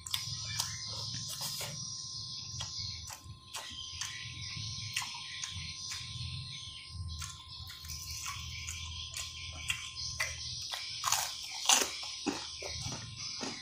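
Close-up eating sounds of a mouthful of rice and fried tempe: wet chewing with many short lip-smacking clicks, a few louder smacks near the end.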